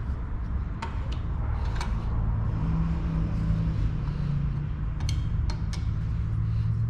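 A steady low hum with a few sharp, isolated metal clicks from hand tools on an engine cover's screws as they are tightened: two in the first two seconds, then three close together about five seconds in.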